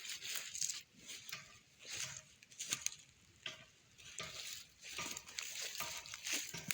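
Irregular rustling and crackling, short scrapes and crunches coming several times a second with a few sharper clicks.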